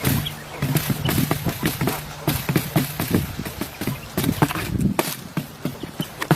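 Rapid, irregular knocking and clattering of hard objects, several knocks a second. A low steady hum runs under the first half.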